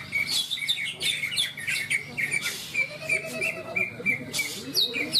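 Several caged cucak ijo (green leafbirds) singing at once: fast, overlapping strings of chirps and whistled notes with no pause.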